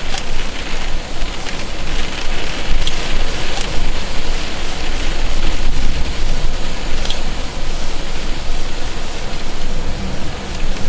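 Heavy storm rain and wind, a steady loud rushing that swells and eases, with a few sharp ticks.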